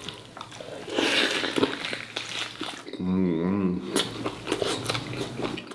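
Close-miked biting and chewing of braised pig offal, with wet clicks and smacks. About three seconds in comes a short hummed "mmm" that wavers in pitch.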